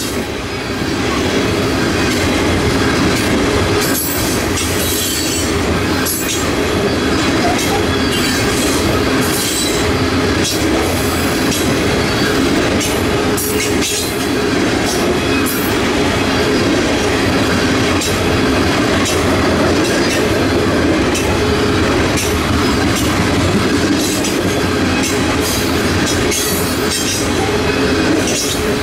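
Freight train rolling past at steady speed, its steel wheels clicking irregularly over rail joints.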